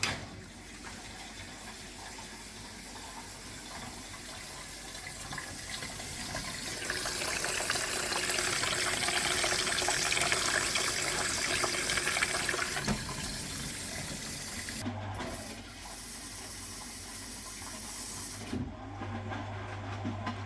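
Water rushing into a 1969 Zanker VA520 washing machine as it fills, starting suddenly and growing louder toward the middle. About three-quarters of the way through a steady low hum comes in, and near the end the rush of water falls away while the hum goes on.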